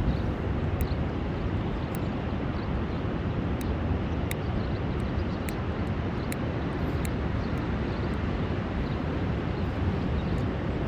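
Rough sea surf under a high-wave warning, waves breaking continuously into one steady, low, rumbling wash with no single crash standing out.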